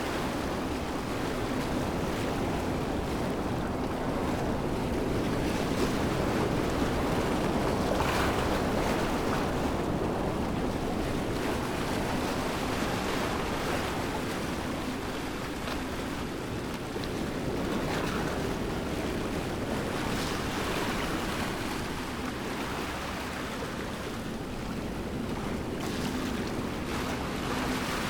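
Steady rushing of a waterfall, an even wash of water noise that swells and eases gently.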